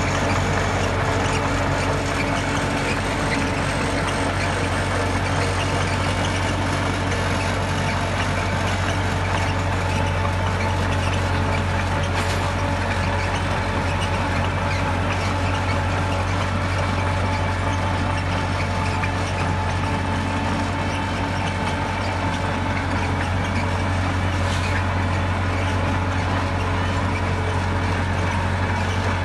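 Heavy diesel engine of earthmoving equipment running steadily: a deep, even drone with no revving or change in pace.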